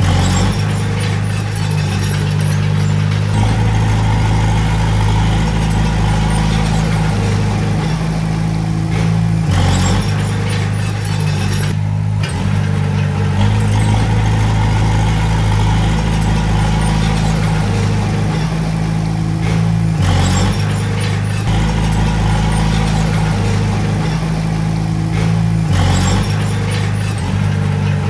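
Small crawler bulldozer's diesel engine running under working load, its pitch and strength shifting every few seconds as the load changes.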